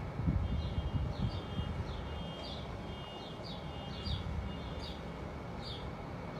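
A bird calling: a string of short, high chirps, each sweeping downward, repeating about one to two times a second. Under it runs a low rumble, strongest in the first second or so.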